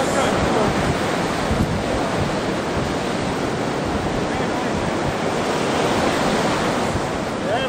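Atlantic surf washing onto the beach, mixed with wind rushing across the microphone in a steady roar.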